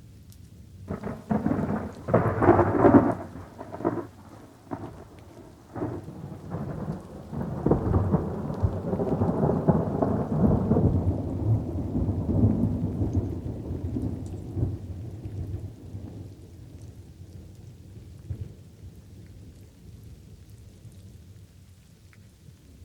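Thunderstorm: a run of sharp thunder claps starting about a second in, then a long rolling rumble that swells and slowly fades, over steady rain.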